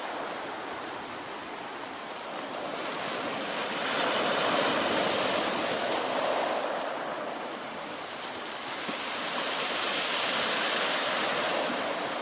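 Black Sea surf: waves washing onto the shore, swelling louder about four seconds in and again near ten seconds.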